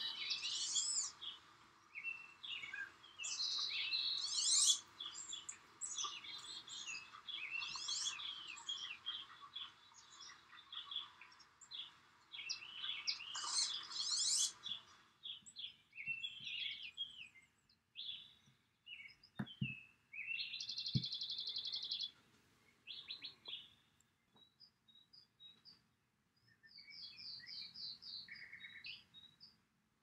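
Birds chirping and calling, a dense overlapping chorus of short high notes and rising calls for the first half, then thinner, scattered calls. Two brief low knocks come past the middle.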